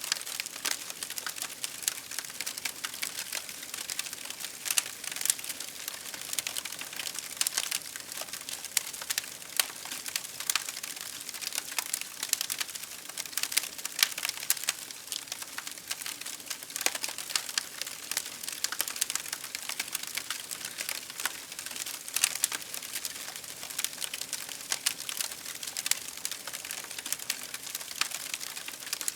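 Wood fire crackling, a continuous scatter of small sharp pops and snaps, some louder than others.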